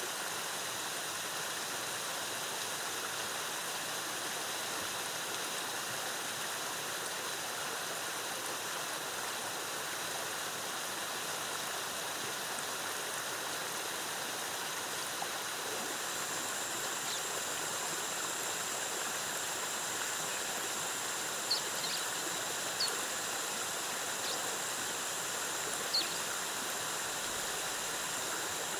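Waterfall water cascading in a steady, even rush. A thin high-pitched tone runs over it, a second, higher tone joins about halfway, and a few brief chirps sound in the last third.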